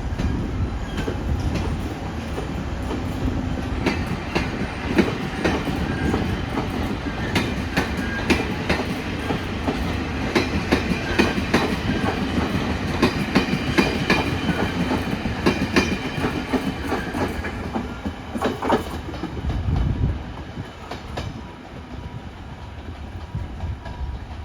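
A departing train rolling past, its wheels clattering over rail joints and points in a dense run of clicks. The sound fades about three-quarters of the way through.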